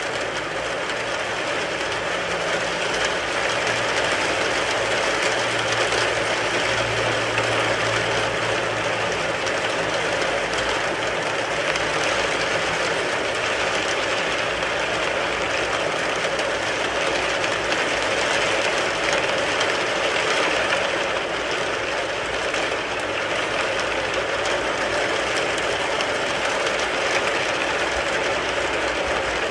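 Rain drumming steadily on a car's roof and body, a dense, even patter of drops.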